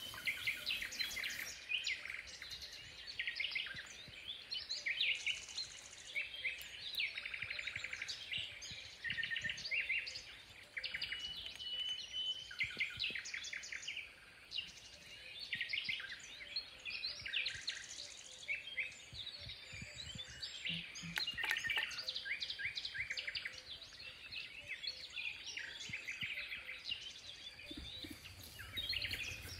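Several birds chirping and trilling, short rapid calls overlapping one another.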